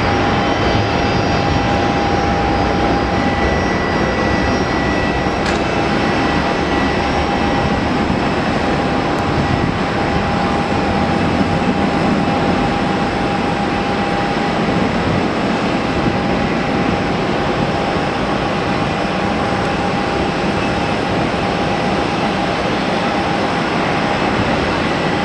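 Airbus A319-112's CFM56 turbofan engines at takeoff thrust: a steady, even jet noise at a constant level, with two steady whining tones running through it.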